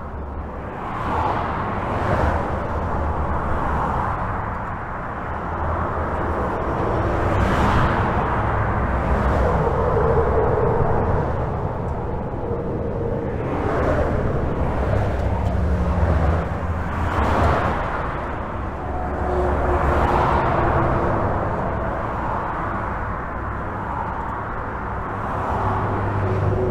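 Highway traffic heard from under a bridge: a continuous rumble of tyres and engines, with individual vehicles swelling past every few seconds.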